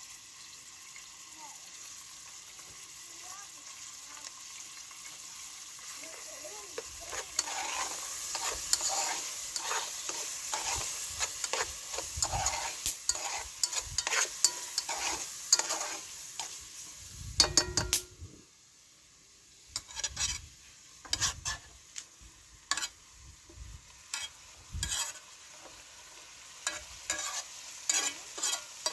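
Food sizzling in a frying pan while a spoon stirs and scrapes it, the strokes thick and fast for several seconds. About two-thirds through, the sizzle cuts off suddenly, leaving scattered knocks and scrapes.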